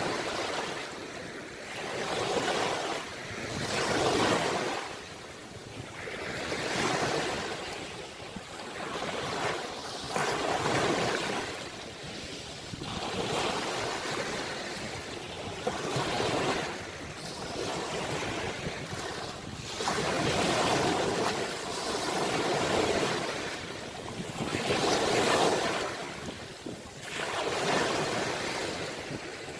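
Sea waves washing onto the shore, each surge swelling and fading again, one after another every two to three seconds.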